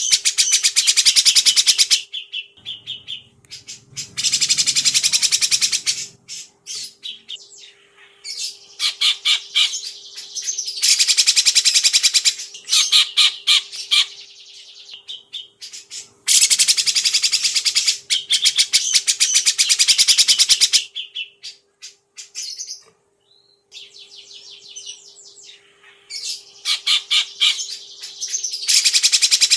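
Songbirds singing loud bursts of rapid, harsh, high-pitched chattering song. Each burst lasts a few seconds, with short quieter gaps between, over a faint steady hum.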